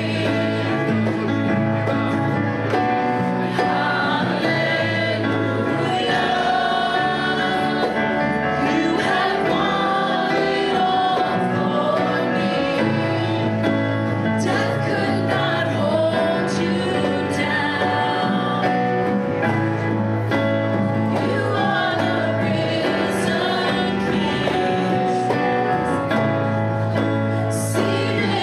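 Gospel music: voices singing a song over instrumental backing.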